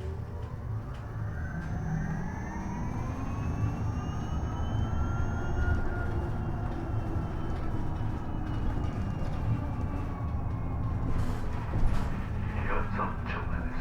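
Isuzu Erga EV electric bus's drive motor whining, rising in pitch for about six seconds as the bus picks up speed and then slowly falling as it slows, over steady road rumble. A few rattles and knocks come near the end.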